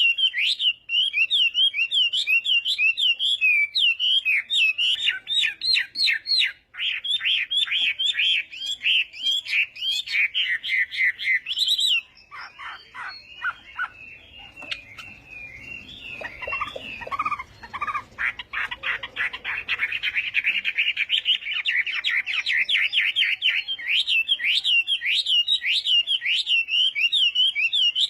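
Chinese hwamei singing a loud, fast song of rapidly repeated whistled notes. About twelve seconds in it breaks off suddenly into softer, lower, varied phrases, then builds back into dense rapid trills.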